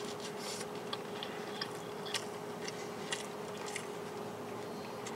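A person chewing a mouthful of hamburger, with small scattered mouth clicks, over a steady faint hum.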